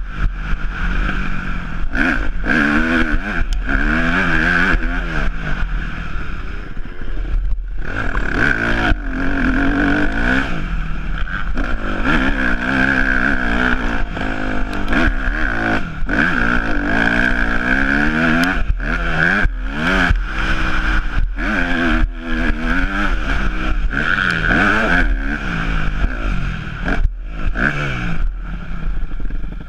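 Yamaha YZ250F motocross bike's 250 cc four-stroke single-cylinder engine being ridden hard, its pitch climbing and falling over and over as the throttle is worked, with a few brief throttle-offs.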